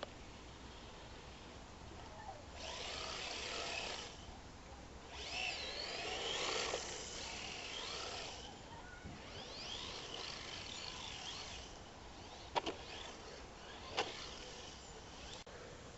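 HPI Maverick radio-controlled drift car making three runs, its whine rising and falling in pitch with the throttle. Near the end come two sharp knocks about a second and a half apart, the loudest sounds here.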